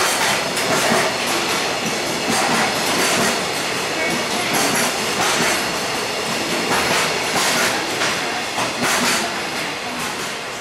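Loaded container wagons of a freight train rolling slowly past, their wheels clacking over the rail joints in a steady clatter. The clatter fades near the end as the last wagon goes by.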